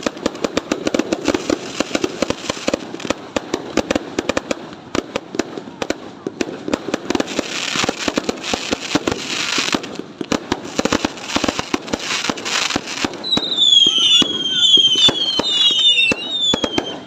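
New Year fireworks crackling and popping in rapid, dense volleys of bangs. In the last few seconds, several short falling whistles sound over the crackle.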